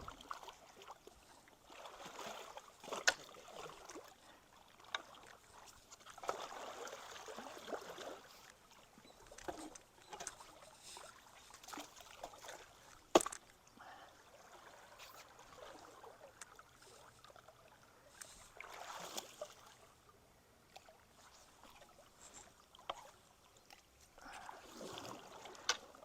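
Creek water splashing and sloshing in uneven surges as clogged debris washes through, with a few sharp knocks, the loudest about 13 seconds in.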